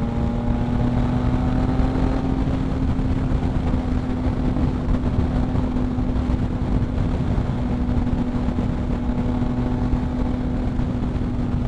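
A 2022 Yamaha MT-09's inline-three engine with a Two Brothers exhaust, running at a steady freeway cruise in top gear, holding one even engine note, under a heavy rush of wind noise.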